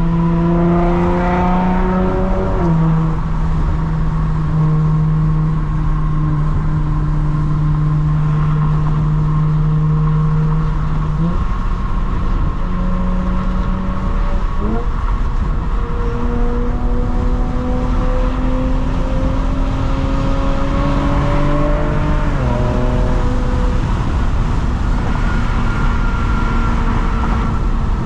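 2022 Lexus IS350's 3.5-litre V6 through a mid-pipe without secondary cats and a muffler-delete axle-back, driving under steady load. The exhaust note slowly climbs in pitch and then drops several times as the automatic shifts up.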